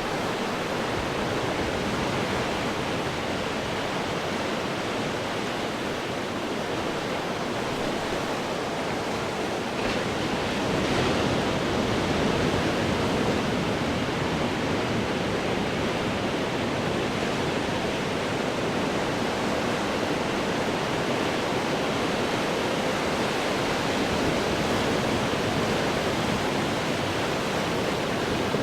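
Ocean waves breaking on rocks: a continuous wash of surf, swelling slightly about ten seconds in.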